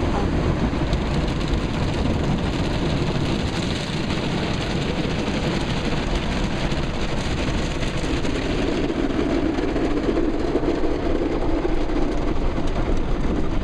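Ryko SoftGloss Maxx automatic car wash working over the car, heard from inside the cabin: a steady rush of water spray and brushes against the body. About eight seconds in, a deeper hum grows louder.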